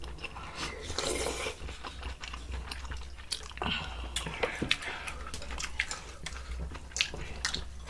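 Close-up eating sounds: chewing and biting, with scattered sharp clicks and taps and a short noisy stretch about a second in.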